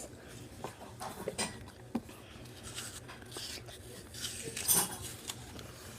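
Faint rustling with scattered small clicks and knocks.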